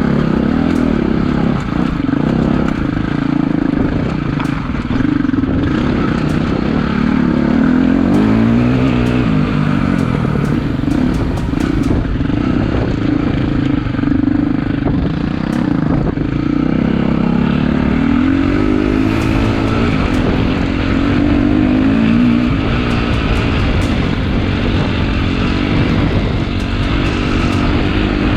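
Four-stroke single-cylinder KTM EXC-F dirt bike engine riding along a trail, its revs rising and falling over and over with throttle and gear changes. Scattered clicks and clatter come over it.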